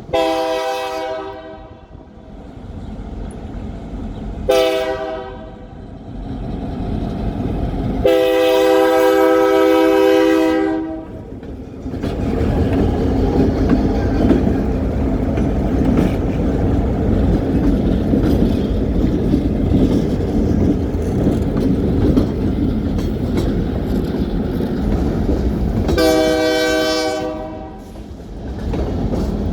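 A diesel locomotive horn sounds three blasts, long, short, then a longer one about three seconds. A train then passes with a steady rumble and wheel clacks. Near the end the horn gives one more blast of about two seconds.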